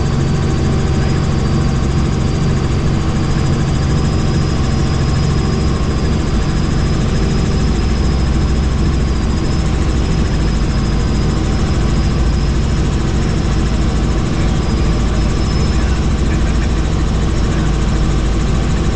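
Helicopter engine and rotor running steadily: a loud, even drone with a thin, steady high whine above it.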